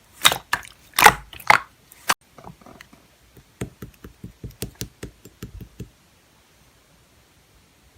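Slime being squished and poked by hand, giving sharp popping clicks for the first two seconds, then a run of softer, quicker clicks that stops about six seconds in.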